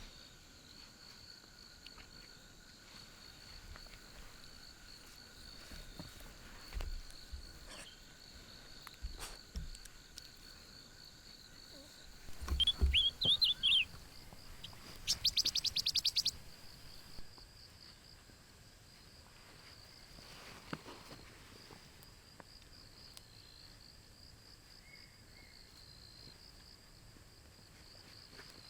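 Forest ambience: a steady, high-pitched insect trill, with a short cluster of bird chirps about halfway through, followed at once by a quick, rapid rattling call. A few soft low thumps are heard now and then.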